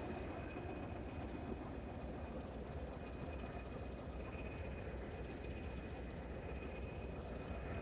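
Steady running rumble of a heritage railway passenger coach in motion, heard from inside the coach, with a faint steady high whine over it.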